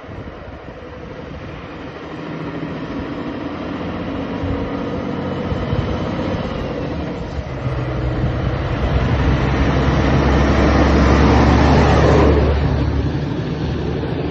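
Scania truck pulling a low-loader trailer, driving up and past. Its low diesel engine note and tyre noise grow steadily louder to a peak about twelve seconds in, then fade as it moves away.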